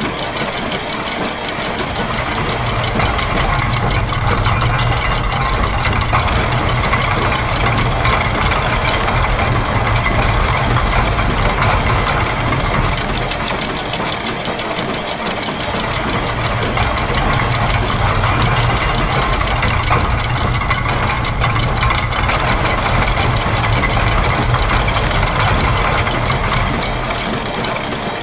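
Dense, continuous mix of layered factory machine-sound loops: gears, a press, clockwork, a ratchet and a sewing machine, repeating on different loop lengths so they fall into a shifting polyrhythm. The low rumble and the high hiss each thin out briefly and return about every 15 seconds.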